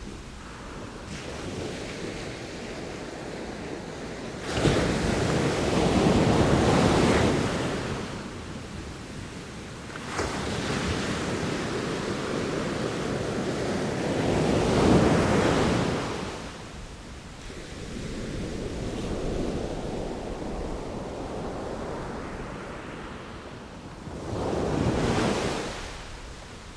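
Sea waves breaking and washing up the shore: a hiss of surf that rises and falls in about four surges. The first surge comes in suddenly about four and a half seconds in, and the longest builds from about ten seconds to a peak near fifteen.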